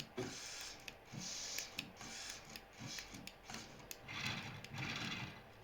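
A toy RC car's small electric motor and plastic gears whirring in several short bursts, with a few clicks between them. The longest burst comes about four seconds in, and the whirring stops near the end.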